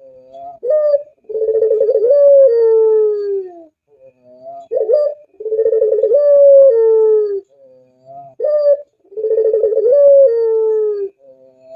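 Puter pelung dove cooing, three times over: each time a short rising note, then a rolling coo that slides into a long falling note.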